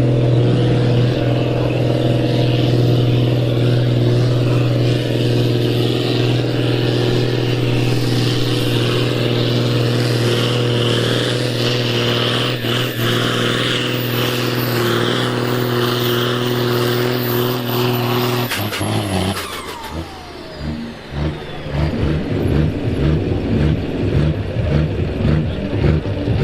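Ursus tractor's diesel engine at full throttle under pulling load, holding a steady pitch with a faint high whine above it. About two-thirds of the way through it is throttled off: the whine falls away and the engine settles into an uneven, pulsing idle.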